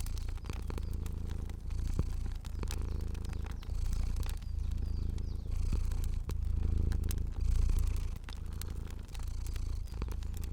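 Domestic cat purring, a low rumble that swells and fades with each breath about every second or so, over the scattered pops of a crackling fire.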